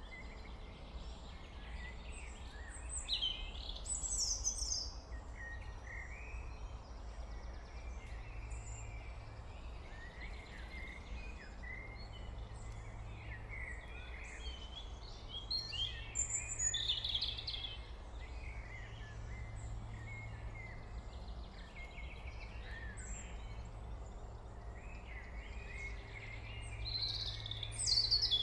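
Small birds chirping over and over, with louder clusters of calls a few seconds in, around the middle and near the end, over a steady low hum.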